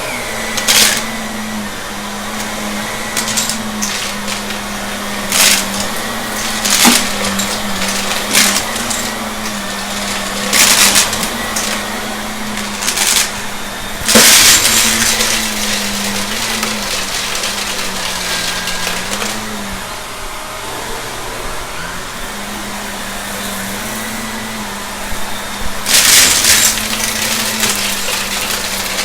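Shark vacuum cleaner running with a steady motor hum whose pitch wavers as the load changes, while debris from a mess test is sucked up in frequent sharp cracks and rattling bursts. A long, loud burst of pickup comes about halfway through, and another near the end.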